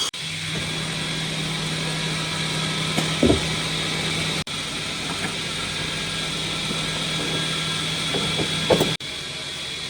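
A steady electric motor hum with a hiss, typical of a power tool running, with a few short knocks of wood and two abrupt breaks.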